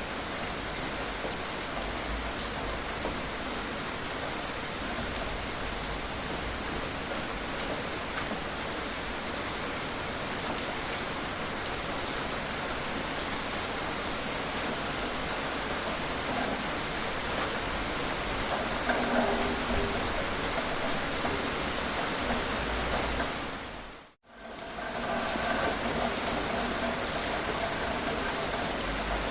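Steady rain falling, an even hiss of drops on surfaces. About 24 seconds in, it fades out to silence for a split second and comes straight back.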